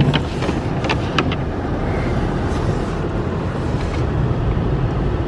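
Steady road and engine rumble inside a car driving slowly on a snow-covered road, with three short sharp ticks in the first second and a half.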